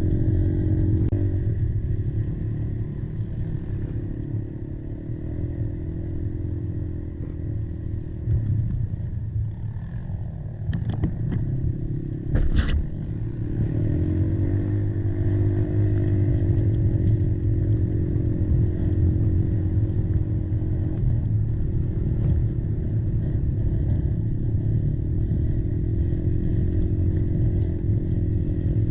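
Kymco Maxxer 300 quad's single-cylinder engine running steadily under way, its pitch wavering a little with the throttle, over a heavy low rumble from the ride. A few sharp knocks or clatters come about eleven to thirteen seconds in.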